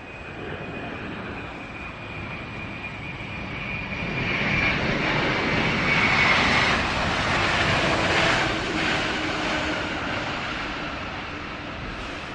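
Jet airliner passing close by. Its engine noise builds to a peak and fades, and a high engine whine slides steadily down in pitch as it goes past.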